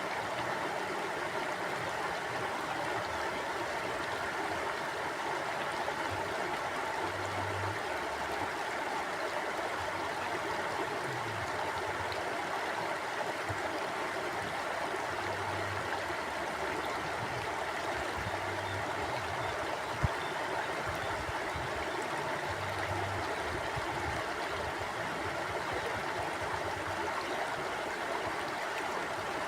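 Mountain stream flowing, a steady rush of water with no pauses. A single sharp click about two-thirds of the way through.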